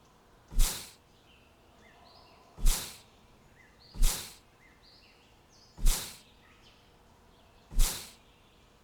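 Five short, sharp whooshing bursts, each dying away within about half a second, come every one and a half to two seconds. Faint high bird chirps sound between them.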